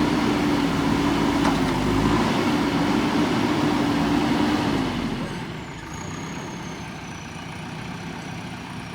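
JCB 3DX backhoe loader's diesel engine running at high revs with a steady hum. About five seconds in the revs fall away and it settles to a quieter run.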